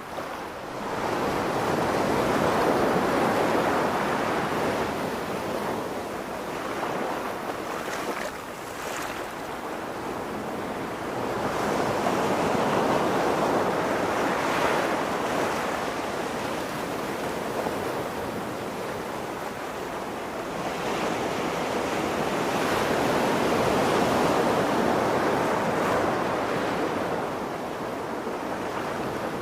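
Ocean waves washing onto a shore, swelling and ebbing in three long surges about ten seconds apart.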